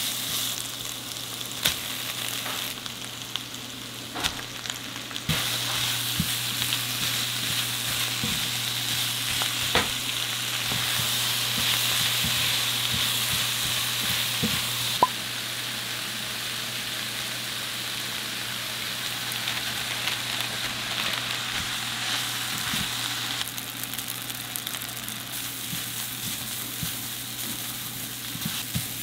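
Food sizzling as it fries in a pan, with occasional clicks and knocks of a utensil. The sizzle changes level abruptly a few times over a steady low hum.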